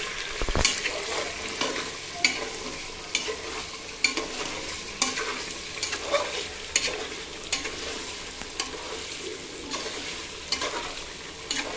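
Chicken and red chillies frying in oil in a pressure cooker, a steady sizzle, while a steel spoon stirs them and scrapes the pot, with irregular clicks of the spoon against the metal.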